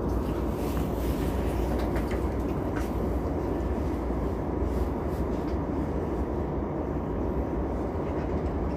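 JR E233 series 2000 electric multiple unit running steadily between stations, heard from inside the car: a constant rumble of wheels on rail with a few faint, irregular clicks.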